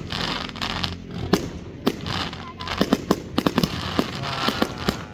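Aerial fireworks going off: a string of sharp bangs over a steady hiss and crackle, with a rapid flurry of bangs in the middle.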